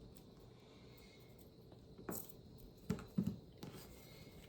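Faint, scattered crackles of dry, papery onion skin being peeled off an onion, with a few small crackles about two to three and a half seconds in.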